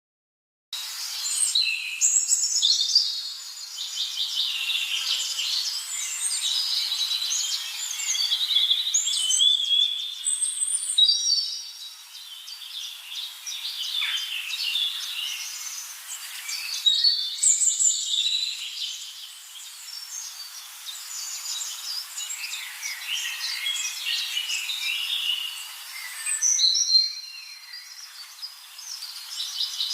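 Chorus of many songbirds chirping and singing at once, dense and continuous, starting abruptly under a second in.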